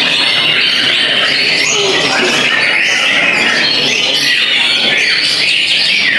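Many caged white-rumped shamas (murai batu) singing at once, a dense, unbroken tangle of overlapping whistles and chirps.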